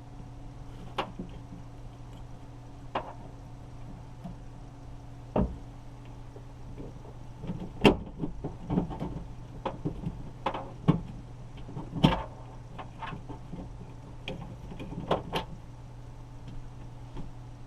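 Irregular clicks and knocks of plastic and metal as a 2017 Nissan Sentra's outside door handle is worked loose from the door, sparse at first and then busier, with the sharpest knocks about eight and twelve seconds in. A steady low hum runs underneath.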